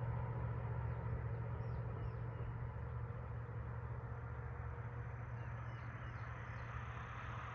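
Steady low hum of a vehicle engine running, with small birds chirping briefly twice. A faint high, steady buzz starts about five seconds in.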